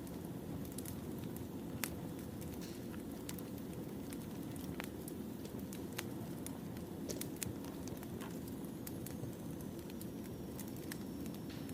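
Wood fire burning: a steady low rush with scattered sharp pops and crackles from the burning logs.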